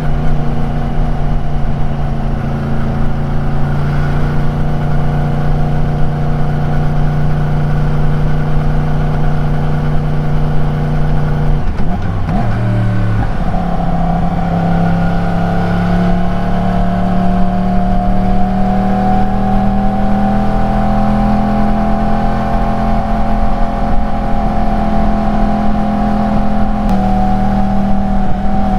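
Yamaha YZF-R1's crossplane inline-four engine and exhaust running steadily under way. About twelve seconds in the note breaks and shifts, then rises slowly as the revs build, dropping slightly near the end.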